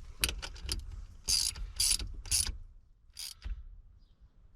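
Hand socket ratchet with a 1/2-inch socket working a fastener: a quick run of pawl clicks, then several short ratcheting strokes about half a second apart.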